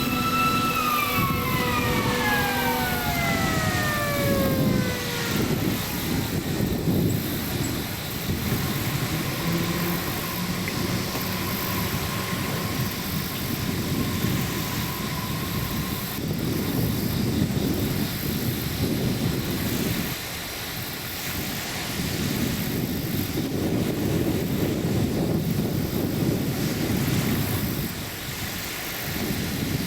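Passing train's air horn holding a steady chord, then sliding steeply down in pitch over about four seconds and fading. It gives way to the steady rumbling noise of the train rolling by.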